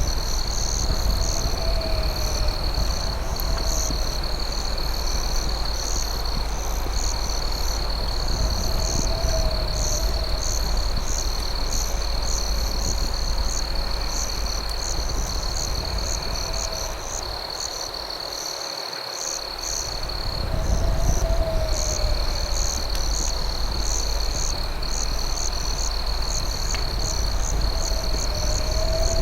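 Night insect chorus of crickets: one steady high trill with rapid rhythmic chirping above it, and a short low call repeating about every three seconds. Underneath runs a steady low rumble that briefly fades out a little past halfway.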